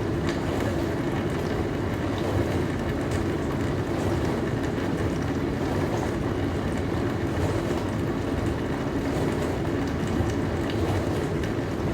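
Dishwasher running: a steady low churning of water spraying inside the tub over the hum of its pump, with faint light clicks now and then.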